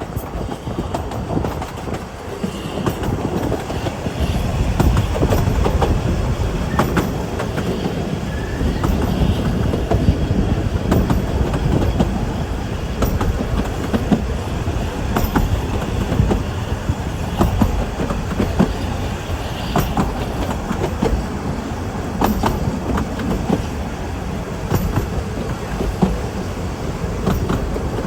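Narrow-gauge Ffestiniog Railway train running along the track, a steady rumble with irregular clicks of wheels over rail joints and a faint wheel squeal now and then.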